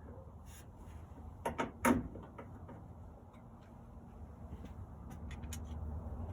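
Scattered clicks and knocks from screws being worked back into the Camp Chef smoker's housing, the loudest two knocks about one and a half to two seconds in, over a low steady hum.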